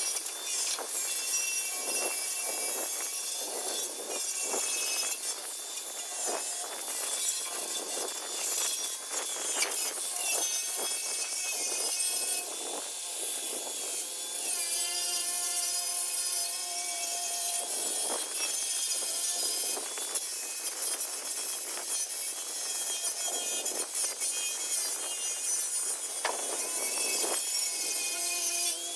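Rotary buffer with a flannel polishing pad working against metal: a steady motor whine under rough, uneven friction noise from the pad on the surface.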